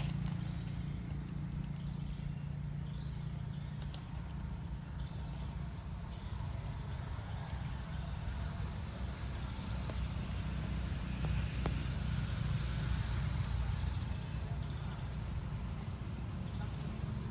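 Steady high-pitched insect chirring over a constant low rumble.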